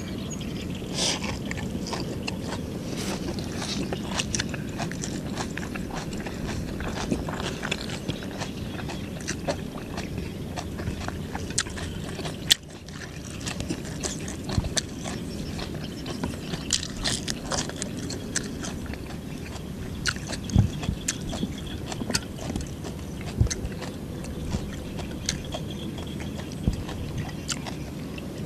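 Close-up chewing of lettuce-wrapped banh chheav (Khmer crepe): wet mouth clicks and crunching of fresh leaves, with one sharp click about halfway through.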